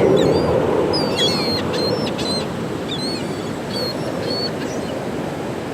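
A flock of gulls calling: many short, overlapping squawks and yelps, over a steady rushing background.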